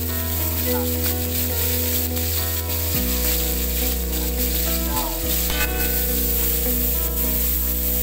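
Blended chili paste with sautéed shallots and garlic sizzling steadily in hot cooking oil while it is stirred, with background music of held chords underneath.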